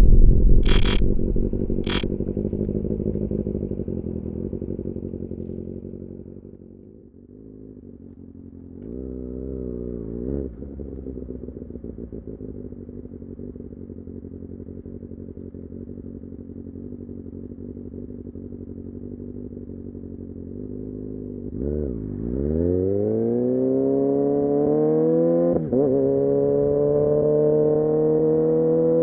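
Kawasaki Ninja ZX-6R inline-four engine dropping to idle, with two sharp clicks near the start. A brief throttle blip comes around ten seconds in, then steady idling. Near the end the engine revs up as the bike pulls away, with a quick dip in pitch at a gear change before it climbs again.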